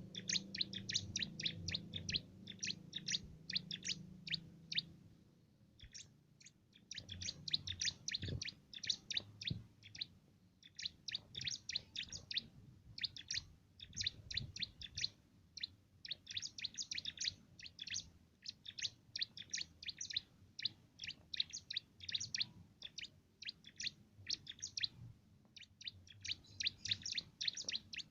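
Cimblek songbird singing in fast, high, chattering phrases of rapid chirps, broken by short pauses. Its song is trained in, with a canary-like flavour.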